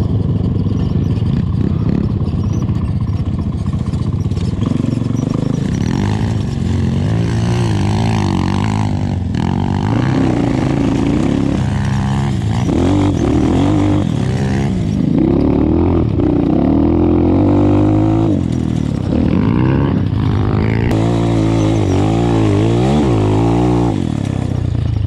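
A 250 cc enduro motorcycle engine running while ridden, its revs rising and falling again and again as the throttle is opened and eased off.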